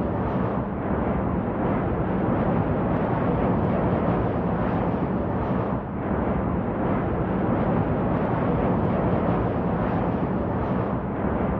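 Steady jet airliner rumble with no distinct tones, dipping briefly about six seconds in.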